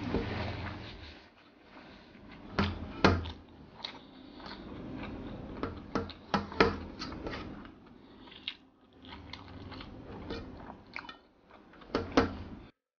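Close-miked chewing and mouth sounds of a person eating rice by hand, with sharp wet smacks every second or so. The sound stops abruptly just before the end.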